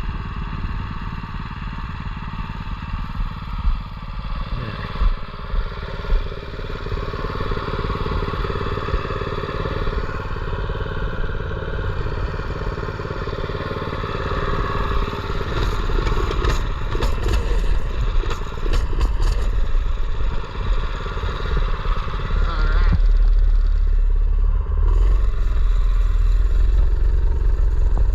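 A mini bike's small engine idling steadily, with a few light clicks partway through. About 23 seconds in it gets louder, with a heavier low rumble.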